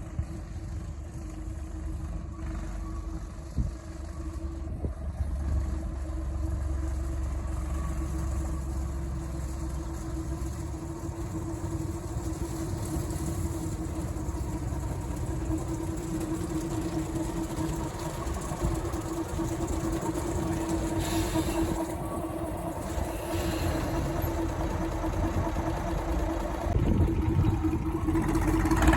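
Diesel locomotive engine running steadily with a constant hum, getting louder near the end.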